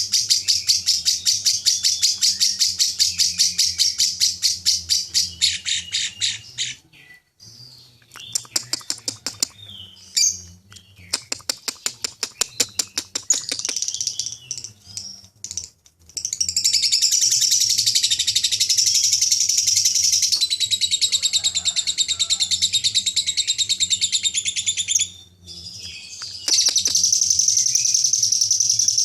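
Lovebird 'ngekek': long bursts of very rapid, high-pitched chattering song. The first burst lasts about six seconds, scattered shorter runs and chirps follow, and then a long unbroken burst of about nine seconds comes in the second half, with another near the end.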